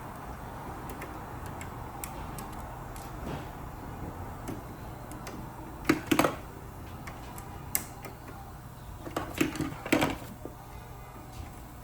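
Scattered light clicks and knocks from hands-on work, with a few louder ones near the middle and again later, over a steady low hum.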